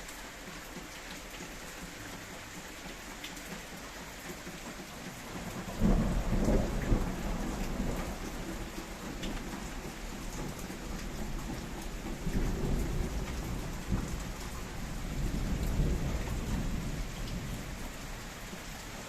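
Steady rain falling, with thunder breaking in about six seconds in as a loud low rumble that rolls on in several swells and dies away near the end.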